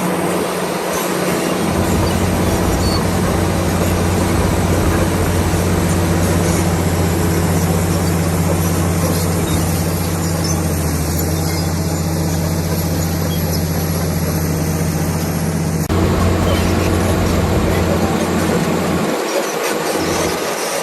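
Komatsu D65PX crawler bulldozer's six-cylinder diesel engine running steadily under load, with the clatter of its steel tracks. The sound changes abruptly about two-thirds of the way through, and the low engine note dips briefly near the end.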